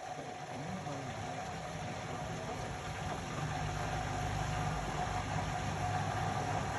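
Indesit Innex BWE 91496X washing machine running: a steady machine hum with a held whine, the low hum building and getting a little louder about halfway through.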